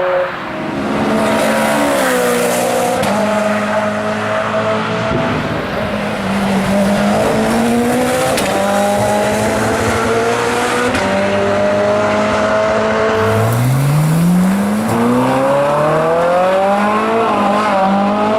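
Ferrari V8 engine driven hard through the gears. Its pitch climbs in long pulls and drops at each shift, with a steep climb from low revs about thirteen seconds in.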